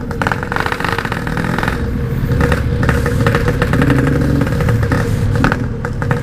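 Yamaha RX-King's 135cc two-stroke single-cylinder engine running through a Packing Power aftermarket exhaust, with a rapid, rattly pulsing note. The revs pick up somewhat a couple of seconds in.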